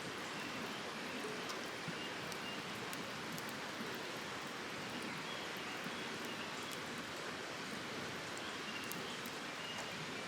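Wood campfire burning, a steady hiss with a few faint, scattered crackles.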